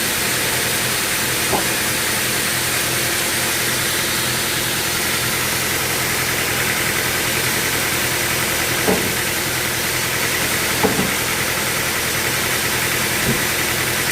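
Sawmill machinery running steadily with a loud, even hiss and a low hum, and a few brief knocks scattered through.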